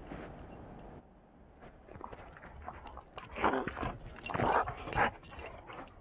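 A dog making three short, noisy vocal sounds in quick succession in the second half.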